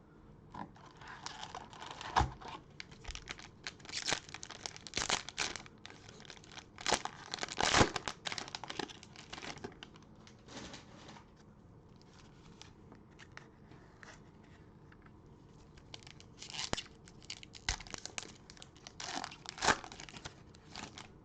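Cellophane wrappers of trading-card cello packs being torn open and crinkled, in bursts with a quieter stretch in the middle and a few sharp taps among the rustling.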